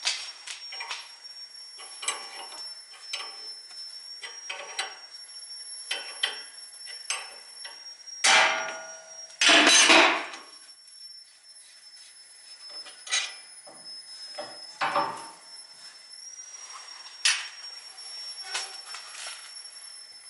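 Metal tools clinking and knocking during hands-on work on a car's suspension, in scattered irregular strikes, with two louder, longer bursts about eight and ten seconds in.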